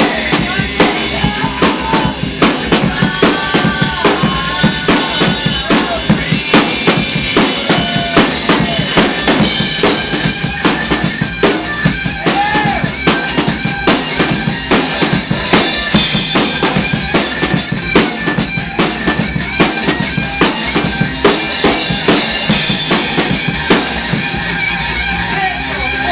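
Rock music driven by a drum kit playing a fast, dense beat of bass drum and snare hits, with melody lines that bend in pitch above it.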